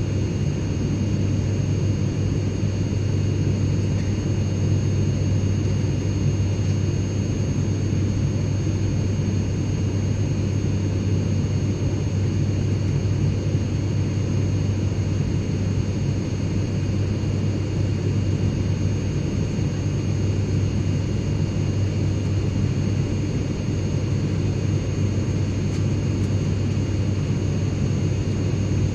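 Airplane cabin interior in flight: a steady low engine rumble and rushing air noise, with a few faint steady high-pitched tones over it.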